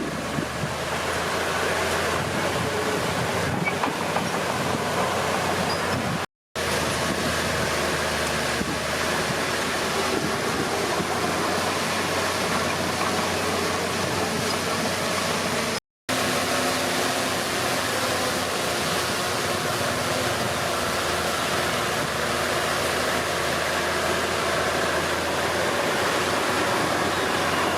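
Komatsu D31P bulldozer's diesel engine running steadily under work, with a broad mechanical rumble; the sound drops out to silence briefly twice.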